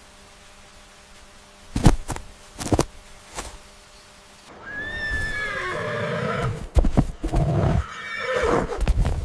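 A few sharp knocks, then an animal's call from about four and a half seconds in: a long, wavering call that falls in pitch, with a second burst near the end.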